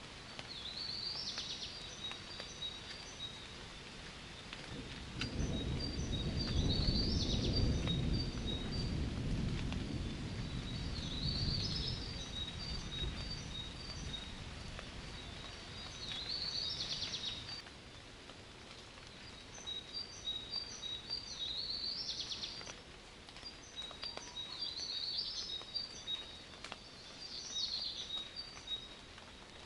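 A songbird sings the same short high phrase over and over, about every five seconds, over light steady rain. About five seconds in, a low roll of thunder rumbles for several seconds, the loudest sound here, then fades away.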